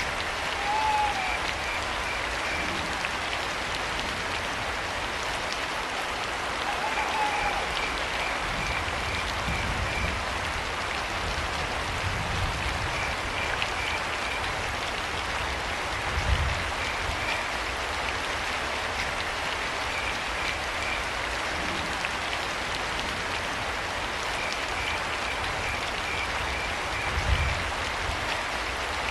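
Steady rain falling, with crickets chirping in short pulsed trains every few seconds. A short call sounds twice in the first eight seconds, and two brief low thumps stand out about halfway and near the end.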